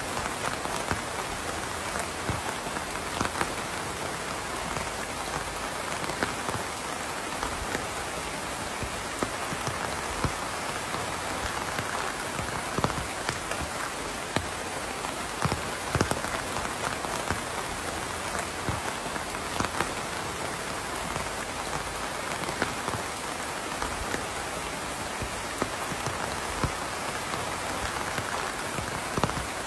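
Steady rain falling, a dense even hiss with many individual drops ticking sharply on a nearby surface.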